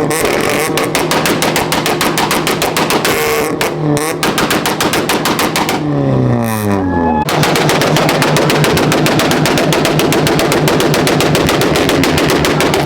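Car engine held on a two-step launch limiter, the exhaust popping and crackling in a rapid machine-gun string. About halfway through the revs fall away for a moment, then it goes back onto the limiter with the pops running on.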